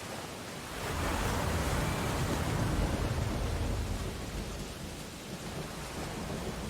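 Ocean surf: a wave breaks about a second in, swells into a loud rush and washes back down over a few seconds, over a steady background of surf.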